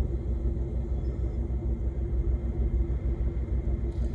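Steady low rumble of an idling engine, throbbing evenly, with a faint steady hum over it.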